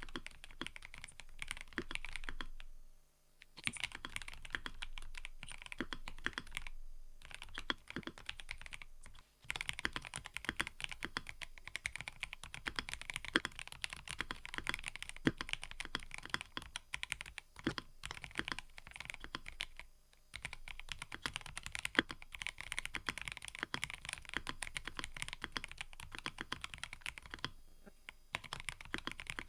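Fast, continuous typing on a mechanical keyboard: dense, rapid keystroke clacks with a few brief pauses, the longest about 3 seconds in and again about 20 seconds in.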